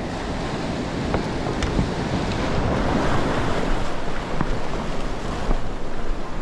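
Ocean surf breaking and washing, with wind buffeting the microphone; the rush of water swells to its loudest about halfway through, with a few faint knocks.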